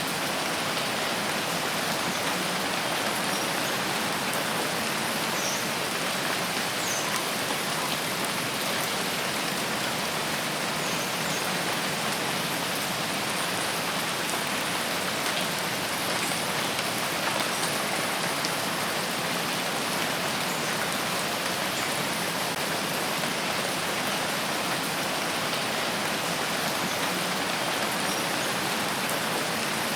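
Steady heavy rain falling on forest foliage, an even unbroken hiss, with a few faint short high chirps now and then.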